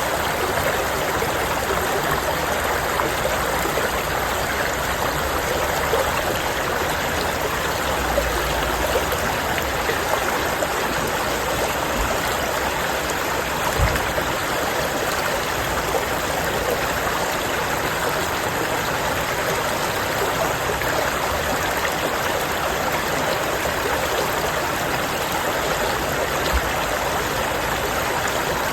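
A stream running over rocks, a steady rushing and gurgling of flowing water, with a brief low thump about halfway through.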